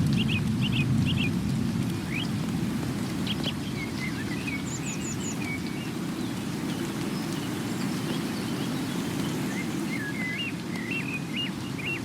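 Steady rain with a deep rumble under it, a little louder in the first couple of seconds, while small birds call over it: a burst of short chirps at the start, a quick run of high notes about five seconds in, and another string of calls near the end.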